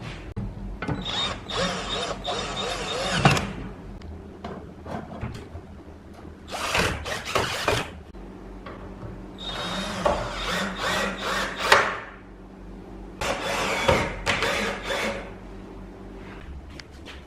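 A small power tool running in four short bursts of a second or two each, over a steady low hum.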